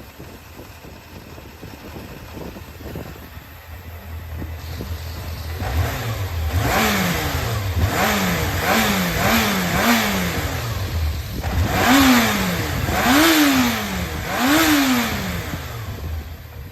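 Yamaha XJR400 (4HM) air-cooled inline-four engine idling, then blipped: four quick revs in a row, followed by three bigger revs, each rising and falling back to idle. A running check of a removed engine that the seller describes as free of abnormal noise.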